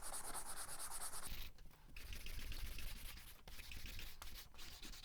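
Hand sanding the varnish off a wooden coat hanger with a sanding block: quick, even back-and-forth rubbing strokes that stop about a second in, followed by quieter scraping and a few light knocks.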